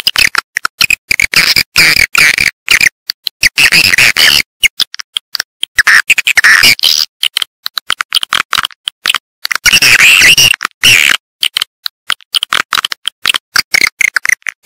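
Swiftlet calls played as a lure sound for swiftlet houses: dense, rapid twittering chirps, high-pitched, cut by many abrupt short silences.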